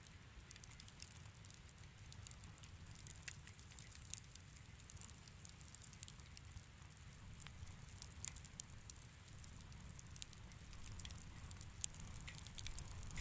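Wood fire in a fireplace crackling faintly: scattered small pops and snaps over a low steady rumble, with one sharper pop near the end.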